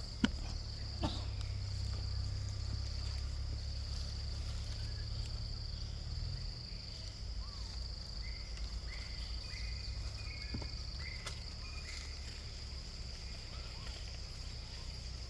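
Steady high-pitched insect drone from crickets or cicadas, over a low rumble that eases off about halfway through. There are a few sharp clicks near the start and some short high chirps in the middle.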